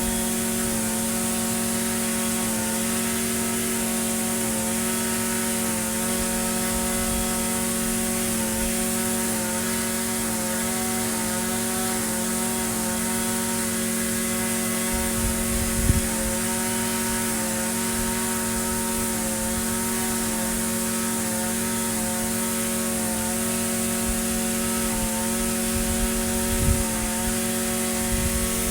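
Echo SRM-2620 string trimmer's small two-stroke engine running at a steady speed without revving, with a brief low bump about halfway through and another near the end.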